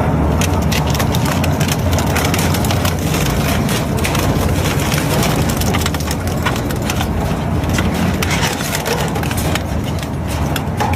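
Engine-driven crushing machine running with a steady low drone, with dense cracking and crunching as material is broken up inside it.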